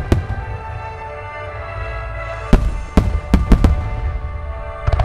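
Aerial firework shells bursting with sharp bangs over sustained music. There is one bang just after the start, a quick run of about five bangs between two and a half and four seconds in, and another near the end.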